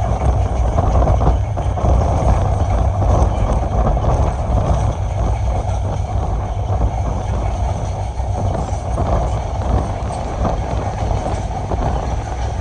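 Passenger train running along the line: a steady rumble of wheels on rails mixed with rushing noise.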